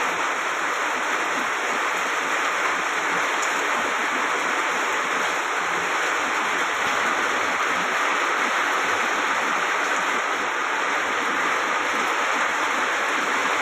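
Heavy rain falling in a steady downpour, an even hiss that holds without change.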